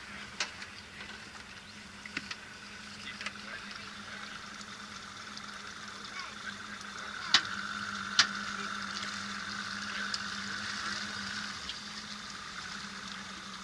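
Motor boat under way: a steady low engine hum under a hiss of water, with two sharp knocks, one about seven seconds in and another a second later.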